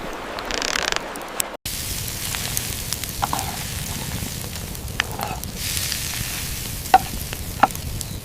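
Food frying in a pan: a steady sizzle with scattered sharp pops, setting in after a brief cut about one and a half seconds in.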